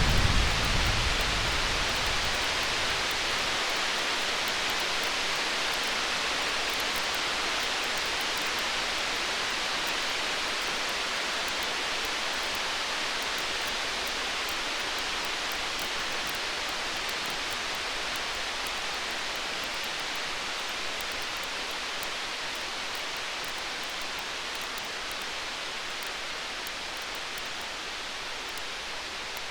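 Steady hiss of rain, slowly fading, as the last of a low thunder rumble dies away in the first second or two. Faint fine crackles of a campfire run on top.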